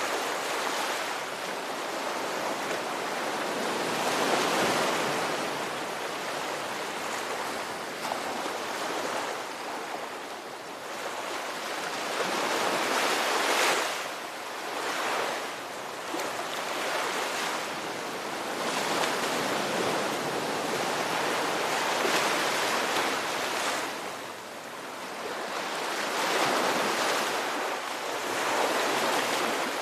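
Ocean waves breaking and washing on the shore: a continuous rushing surf that swells and ebbs every few seconds, with louder breakers about 4, 13 and 22 seconds in.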